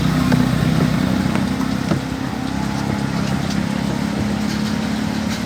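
A motor running steadily, a low even hum, with a few faint clicks over it.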